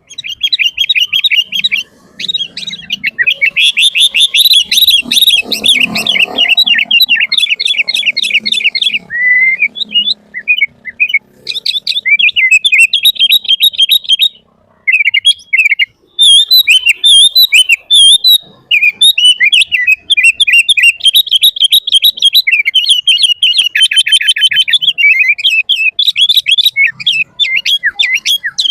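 Sooty-headed bulbul singing a loud, fast, almost unbroken stream of chattering, whistled notes, with short breaks about ten and fifteen seconds in.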